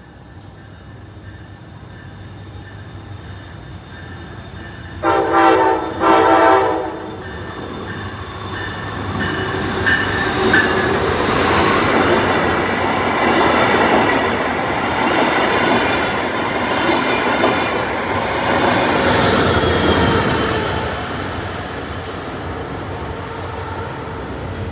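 Brightline passenger train sounding its horn in two short blasts about a second apart, then passing close by with a steady rush and rumble of wheels on the rails that swells and then eases.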